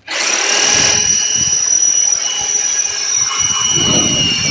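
Rotary hammer in drill-only mode boring a cobalt bit through a hard steel bracket, enlarging a hole to 10.5 mm. It starts abruptly and runs at a steady high-pitched whine, the bit kept wet so it doesn't burn out in the tough metal.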